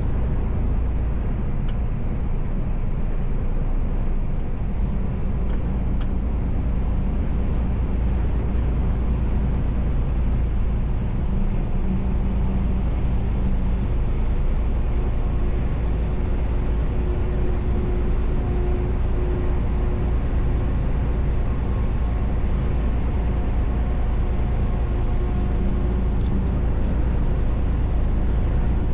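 Steady in-cab drive noise of a Mercedes-Benz Actros L truck on the move: a low, constant diesel engine drone with road and tyre noise, and a few faint held tones that come and go.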